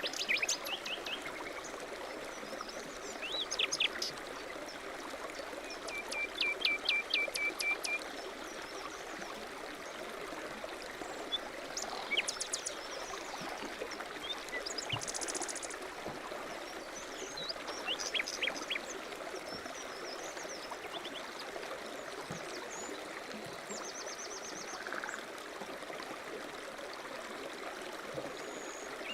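A stream running steadily, with small birds singing and calling over it: a quick trill of evenly repeated notes about six seconds in, and scattered chirps and short trills throughout.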